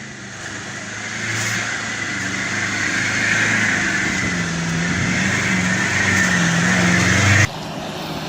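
Pickup truck engine revving under load, its pitch wavering up and down as it grows louder. It breaks off suddenly near the end.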